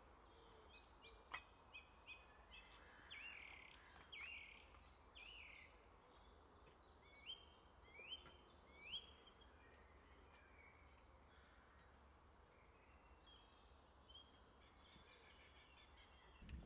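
Faint woodland birdsong: a songbird repeating short whistled phrases that sweep up and down, followed by softer, scattered chirping over quiet outdoor ambience.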